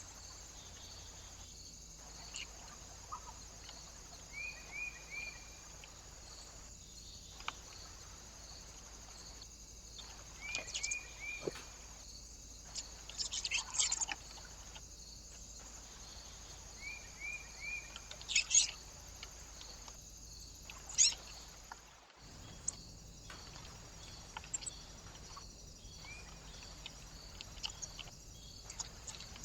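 Small birds calling: short high chirps, several in quick runs of three, and a few sharper, louder calls, over a steady hiss.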